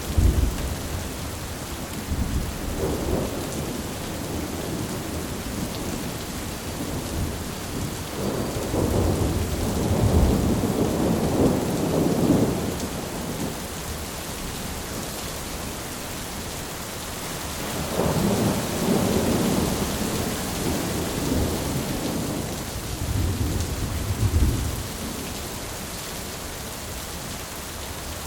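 Thunderstorm: steady rain with several low rolls of thunder. The longest roll comes about a third of the way in, another two-thirds in, and a shorter one after that.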